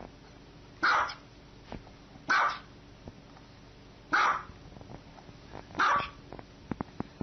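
A dog barking four times, single sharp barks spaced about one and a half to two seconds apart.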